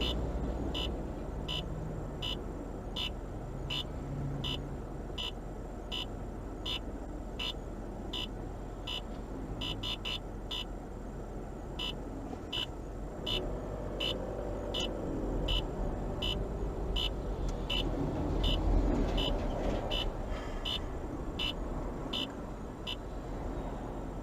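Car cabin rumble from the engine and road, with a turn-signal indicator ticking steadily about once every three-quarters of a second.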